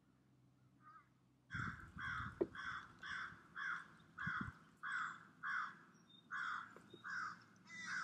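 A bird giving a run of about a dozen short calls, about two a second, starting about a second and a half in, with a brief gap near the six-second mark.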